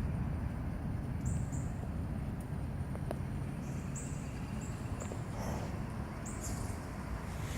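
Gusty wind rumbling on the microphone, with a bird giving short high chirps every second or so.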